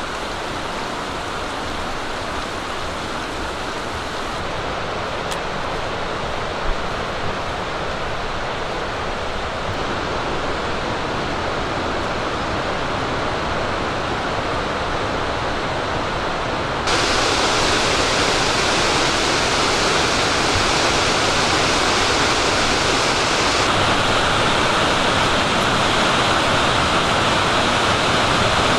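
Waterfall rushing steadily, a dense hiss of falling water. About 17 seconds in it jumps suddenly louder and brighter.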